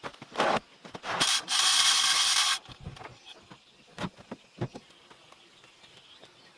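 Hand work on wood: a short scrape, then one long rasping stroke of over a second, like a saw or blade drawn across wood. A couple of light knocks follow.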